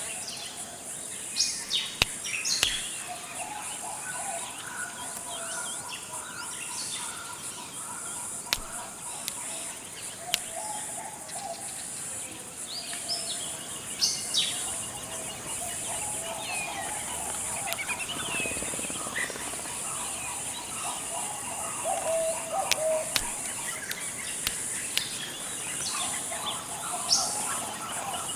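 Tropical forest ambience: a steady high-pitched insect drone under many birds calling, with short chirps and whistles and lower warbling phrases overlapping throughout.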